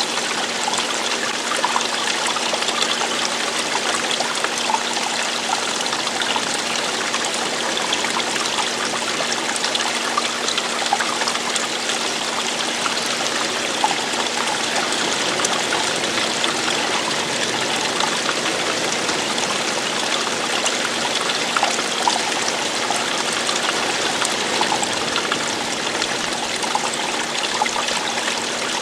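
Running water: a stream or small cascade splashing and trickling steadily, with a faint steady low hum underneath.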